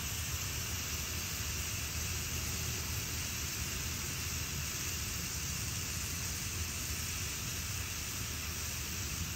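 Sliced mushrooms and butter frying in a cast iron skillet: a steady sizzling hiss with a low hum beneath.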